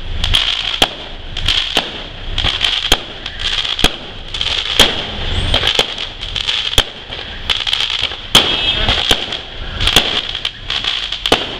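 Aerial fireworks display: sharp bangs of shells bursting about once a second, at irregular spacing, over a steady high-pitched hiss.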